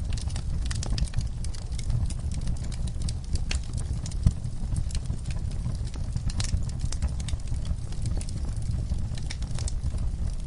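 Wood fire in an outdoor firepit crackling with dense, irregular snaps over a steady low rumble, and one sharper pop about four seconds in.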